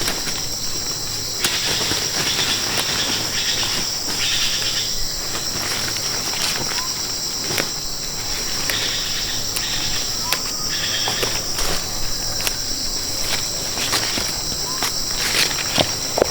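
A steady, high-pitched insect chorus, with scattered short clicks and rustles of plants being handled close by.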